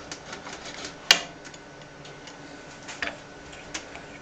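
Scattered light clicks and taps, the sharpest about a second in and two smaller ones near the end, over a faint steady hum.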